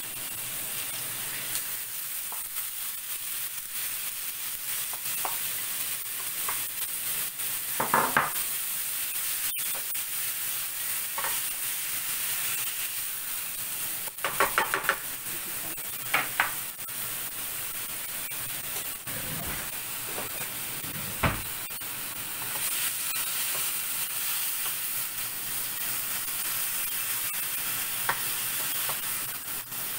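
Ground pork frying with onion in canola oil in a pan, sizzling steadily, with a cooking utensil stirring and scraping it several times.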